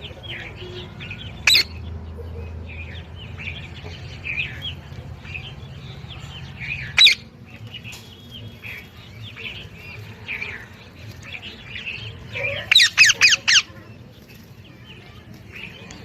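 Parrot calling: soft chirps throughout, with a loud shrill squawk about 1.5 seconds in, another about 7 seconds in, and a rapid run of about five shrill squawks around 13 seconds in.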